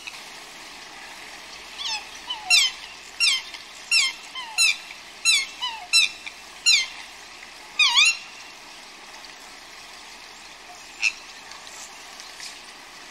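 A bird calling: a run of short, high calls, each sliding down in pitch, one or two a second for several seconds. After a pause comes one more call, over a steady background hiss.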